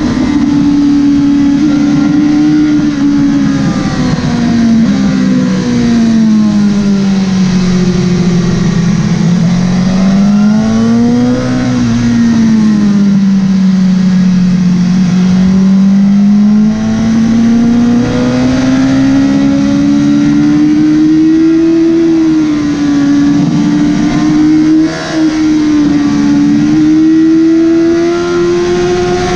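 Motorcycle engine at speed on a race circuit, its pitch climbing under acceleration and falling back under braking several times over, with a brief drop in loudness near the end.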